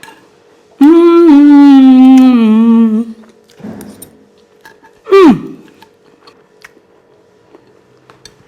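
A woman's long, loud, drawn-out vocal exclamation of delight on tasting food, its pitch sliding slowly down over about two seconds. A short cry falls sharply in pitch a couple of seconds later.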